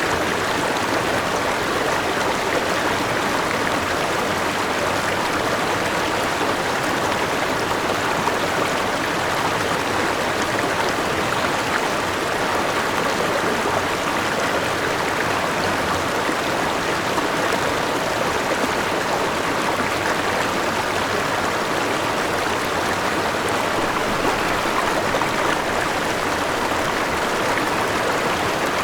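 A river running steadily over rocks, the rush of water holding a constant level.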